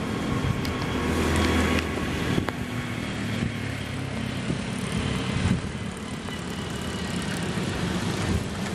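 Diesel railcar approaching slowly, its engine running with a steady low hum over the noise of its wheels on the rails, with a few clicks in the first couple of seconds.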